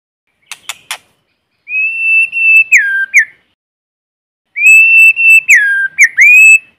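White-rumped shama singing: three short sharp clicks, then two long, clear whistled phrases, each held on one steady note and dropping to a lower note near its end.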